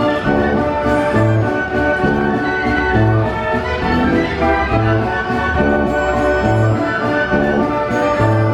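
A 1918 Wurlitzer 157 carousel band organ playing a tune, with full pipe chords and a regular repeating bass line.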